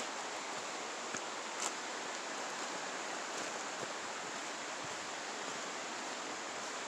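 Steady rushing of a creek or river, with a couple of light snaps about a second and a second and a half in.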